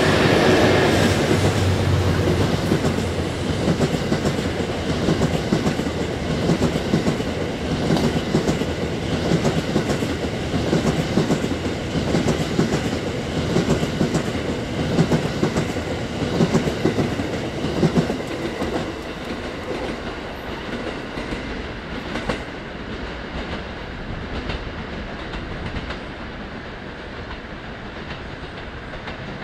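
EF81 electric locomotive passing close, then the Cassiopeia sleeper train's coaches rolling past with the clickety-clack of wheels over the rail joints. The sound is loudest as the locomotive goes by and fades over the last several seconds as the end of the train draws away.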